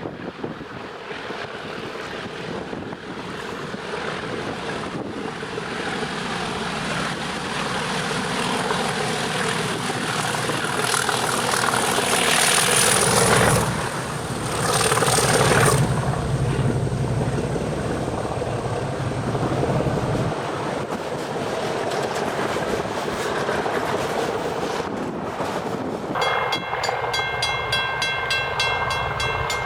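Diesel-hauled freight train approaching and passing, its locomotive engines growing steadily louder and loudest about halfway through. The wagons then run by, and a steady high multi-note tone with a fast regular ticking joins near the end.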